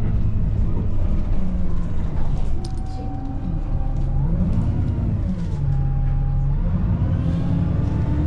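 Motor vehicle engine running, its pitch rising and falling several times as it speeds up and slows, over a steady road rumble.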